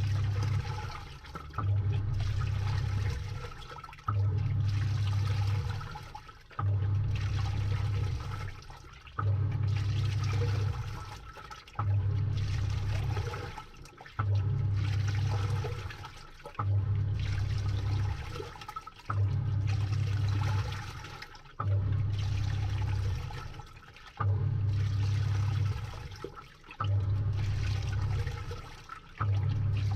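Samsung top-load washing machine agitating a load, heard from inside the drum: the motor drives the pulsator in short strokes, one about every two and a half seconds, each a low hum followed by water sloshing as it dies away.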